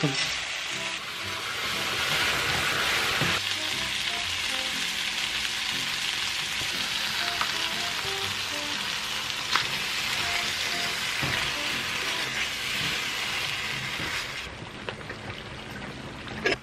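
Shrimp and bacon sizzling as they are stir-fried in butter in a frying pan, a steady hiss that dies down near the end. Light background music plays underneath.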